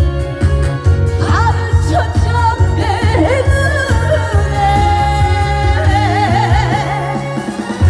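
Live Korean trot song: a woman singing with vibrato over an amplified backing track with a heavy bass beat.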